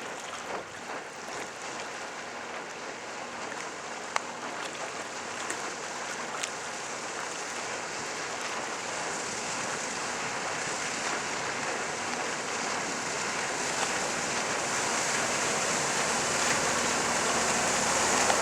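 Steady rushing of water and wind around a boat running on the water, growing gradually louder throughout.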